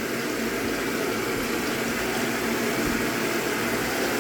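Hoover Automatic 820 washing machine taking in water for its rinse: a steady rush of water into the drum.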